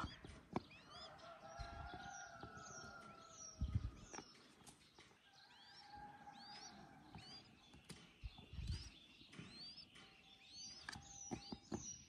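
Faint, high, short chirps from small birds in scattered bursts, with a couple of soft low thumps.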